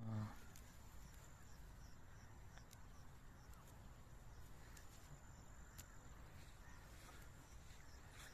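Faint outdoor ambience: a goat tearing and munching grass in scattered soft crisp clicks, over a steady thin high insect tone and a low rumble. A brief low, pitched sound comes right at the start.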